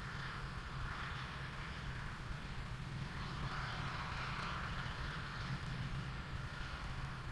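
Rocket launch heard from a distance during ascent: a steady low rumble with a hiss over it that swells and fades gently.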